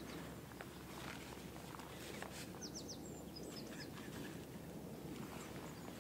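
Small birds chirping in short quick runs of high notes, mostly around the middle, over faint steady outdoor background noise, with a few soft rustles and steps.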